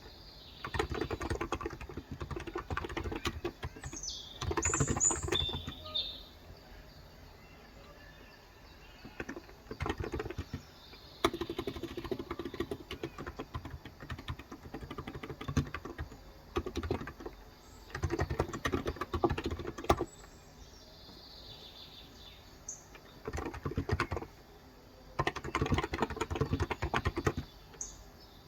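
Typing on a Cox Endeavor electro-capacitive (Topre-style, 35 g) tenkeyless keyboard: fast runs of soft key strokes in bursts separated by short pauses. Birds chirp in the background, most clearly about four to five seconds in.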